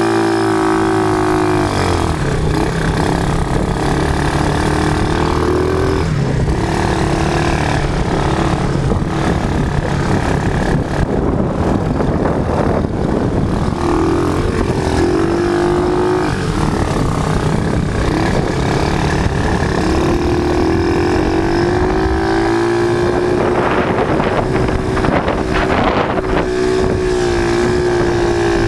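Quad bike (ATV) engine running under way, its pitch rising and falling as the throttle changes.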